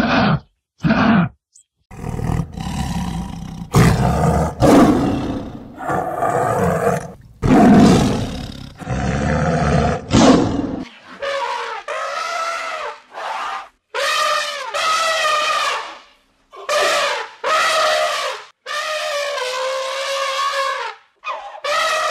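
Kangaroo calls: a few short grunts, then harsh, rasping growls. About eleven seconds in, an African elephant takes over with a run of drawn-out, wavering calls, one after another with short gaps.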